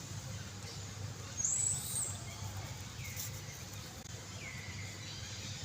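Short high-pitched animal calls: one rising-and-falling whistle about one and a half seconds in, then two falling squeaks later, over a steady low hum.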